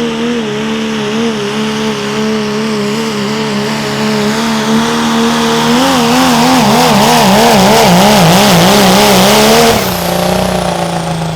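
A turbo-diesel pickup truck engine runs hard under load on a pull. Partway through, its revs waver up and down about twice a second as it gets louder. Near the end the throttle is cut suddenly and the revs fall away.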